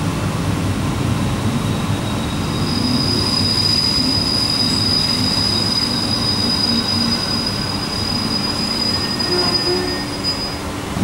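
Trenitalia passenger train rumbling as it slows into a station, heard from inside the carriage. A steady high-pitched braking squeal starts about two seconds in and stops shortly before the end.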